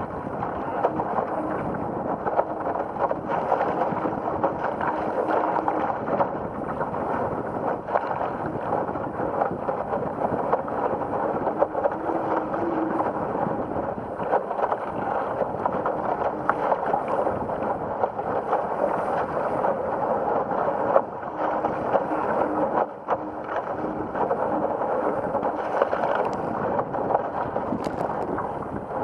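Steady rush of wind and water as a Laser dinghy sails in heavy wind, with wind buffeting the microphone and a few small knocks.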